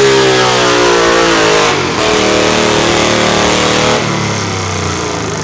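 Pulling tractor's diesel engine running hard under load, its pitch sagging over the first couple of seconds, then running on at lower revs, with abrupt jumps in the sound near the middle.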